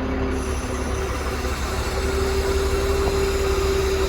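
Tow truck's engine running with a steady whine over it from its hydraulics as the lift is worked. The whine steps up in pitch and gets louder about two seconds in.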